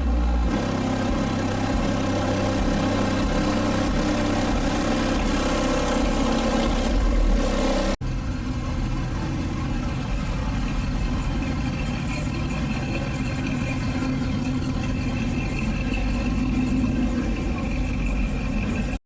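Car engines running and revving, with a sudden cut about eight seconds in to a different engine sound.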